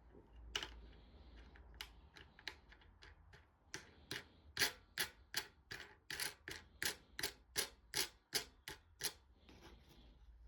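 A few scattered sharp clicks, then a steady run of about fifteen quick clicks or strokes at roughly three a second, which stop about a second before the end; no engine is running.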